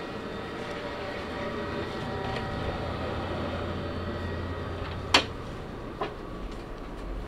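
Steady hum of an electric train at a station, with a sharp metallic clank about five seconds in and a fainter one a second later.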